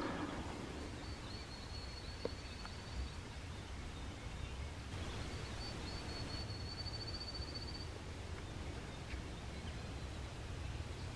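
A small bird singing two long, thin, high trills, the first about a second in and the second around five seconds in, its end breaking into rapid pulses, over a low steady rumble.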